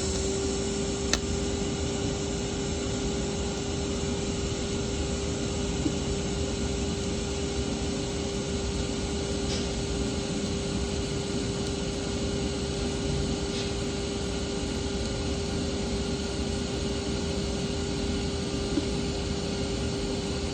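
Welding arc on stainless steel burning steadily: a continuous hiss with a steady tone underneath, broken only by a few faint clicks.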